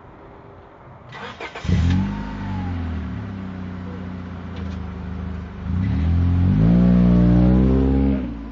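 A car engine starts about two seconds in and runs steadily, then revs up, rising in pitch and getting louder, for the last couple of seconds.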